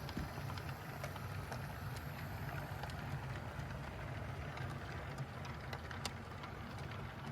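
HO scale model train running on track: a steady low electric motor hum with scattered light clicks of the wheels over the rails.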